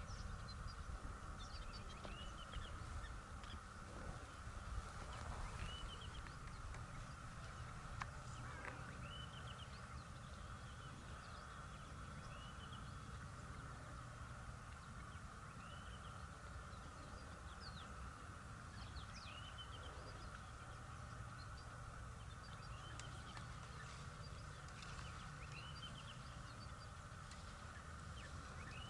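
Birds calling with short, rising notes that come every second or two, over a steady high drone and a low rumble.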